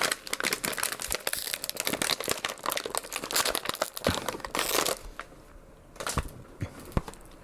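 Crinkling of a silver candy bag being squeezed and pulled at as someone tries and fails to tear it open; the crinkling stops about five seconds in, followed by a few light knocks.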